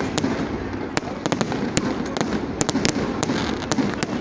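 Fireworks going off: about a dozen sharp cracks and pops at irregular intervals over a continuous din of distant bangs.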